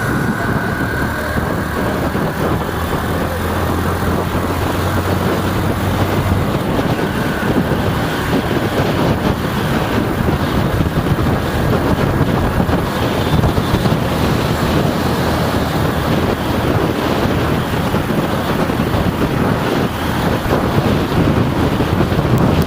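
Steady wind rushing on the microphone over outdoor street noise, with a low hum during the first few seconds.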